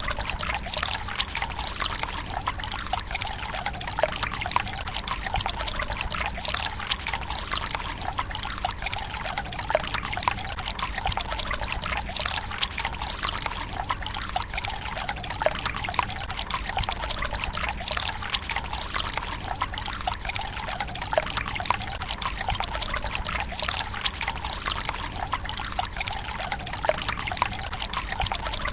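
Water running from a bamboo spout into the stone basin of a Japanese tsukubai: a steady pour with continual small, irregular splashes and trickles.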